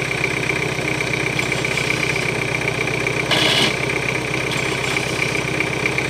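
Off-road 4x4's engine idling steadily, with a steady high whine over it and a short hiss a little past three seconds in.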